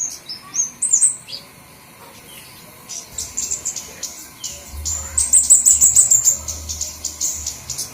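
High, thin calls of small songbirds from a flowerpecker lure recording: short chirping glides at the start, a brief lull, then a fast run of high ticking notes from about five seconds in.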